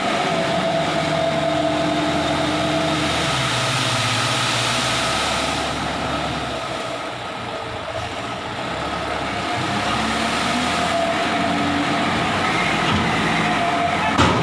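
Dump truck engine running steadily under load, easing off for a few seconds midway and picking up again, with a short knock near the end.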